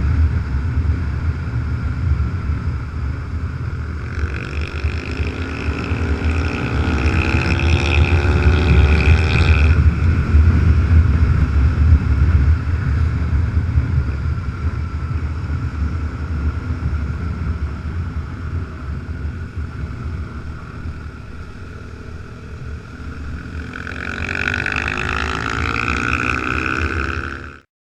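Motorcycle running at road speed, heard from the moving bike, a steady low engine and wind rumble. The engine rises in pitch as it speeds up about four seconds in and again near the end. The sound cuts off suddenly just before the end.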